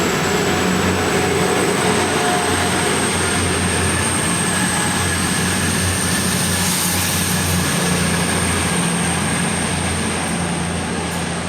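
East Midlands Railway Class 222 Meridian diesel unit pulling out of the station, its engines running under load with a thin high whine that slowly rises in pitch as it gathers speed. The sound eases off slightly near the end.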